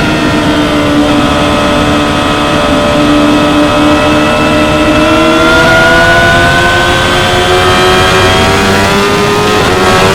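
2016 Yamaha R6's 599 cc inline-four engine running at high, fairly steady revs. Its pitch dips slightly, then climbs slowly through the middle and holds, with no gear change.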